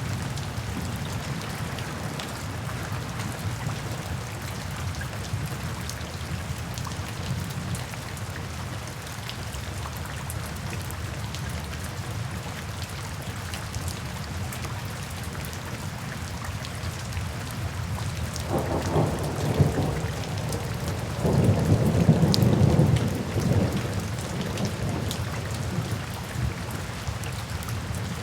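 Steady rain falling, with two rolls of thunder about two-thirds of the way through, the second the louder and longer.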